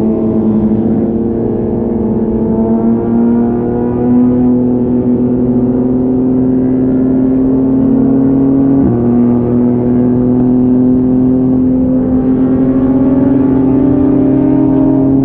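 Yamaha MT-09's three-cylinder engine through an Akrapovic exhaust, pulling steadily under gradual acceleration, its pitch slowly rising. About nine seconds in it shifts up a gear with a sudden drop in pitch, then climbs again.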